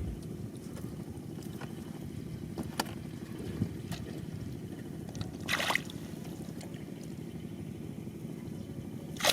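Shallow water sloshing in a flooded rice field as hands work through it, with a few small clicks and a splash about halfway through, over a steady low rumble.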